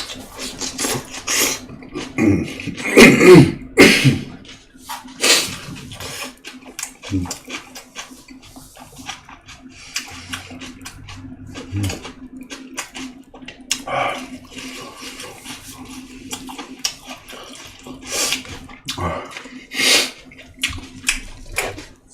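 Close-miked wet chewing and lip-smacking while eating, many short clicks and smacks, loudest about three seconds in. A steady low hum runs underneath.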